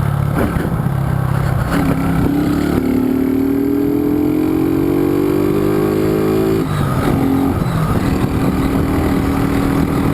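Honda CG 125 Fan motorcycle's single-cylinder engine and noisy exhaust, running steady, then pulling through a gear with the pitch rising for about four seconds, dropping sharply on an upshift near the middle, and running on at an even speed.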